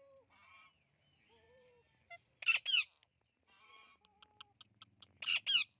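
Bird calls: a few fainter calls, then a loud, sharp, squeaky double call about halfway through, repeated near the end.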